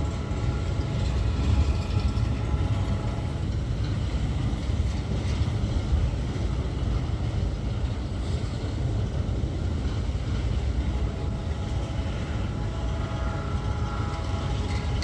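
Empty grain freight train rolling past, a steady heavy rumble, with a faint whine in the first few seconds and again near the end.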